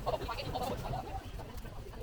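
Faint voices of people talking, over a low steady rumble.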